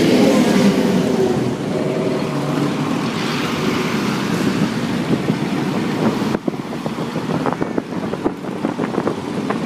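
A motor vehicle's engine running steadily. About six seconds in it gives way to wind buffeting and crackling on the microphone.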